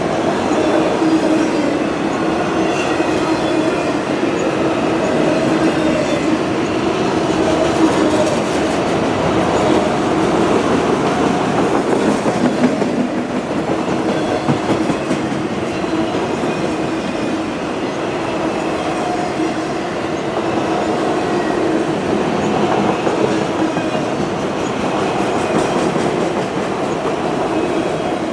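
CSX manifest freight train rolling past, a loud, steady noise of steel wheels running on the rails as the cars go by.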